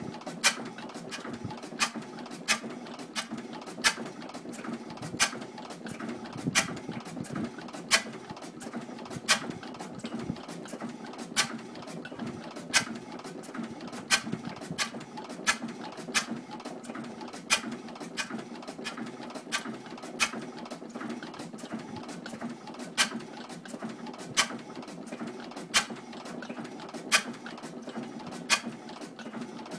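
1912 Crossley G112 stationary gas engine running, with a steady hum and sharp clicks repeating at a fairly regular beat, the loudest a little over once a second.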